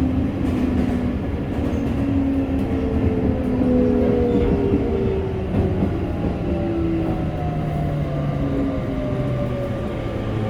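Sagami Railway electric train running, heard from inside the passenger car: steady rumble of wheels on track, with several drawn-out tones that shift and slowly glide in pitch.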